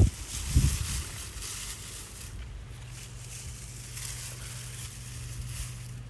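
Outdoor background noise: a brief low thump about half a second in, then a steady low hum under a flickering high hiss.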